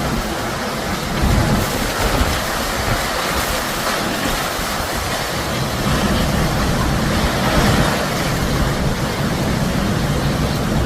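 Typhoon wind blowing hard in surging gusts, with a heavy low rumble of the wind buffeting the microphone.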